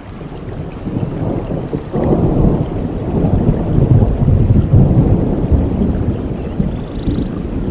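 Steady rain with a long roll of thunder: a deep rumble that swells suddenly about two seconds in, is loudest in the middle and slowly eases off toward the end.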